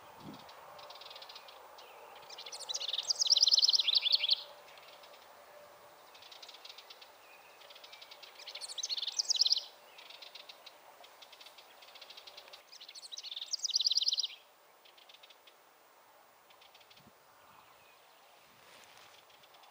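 A songbird singing a fast trilled song three times, each phrase about one and a half to two seconds long and about five seconds apart, with fainter chirps from other birds in between.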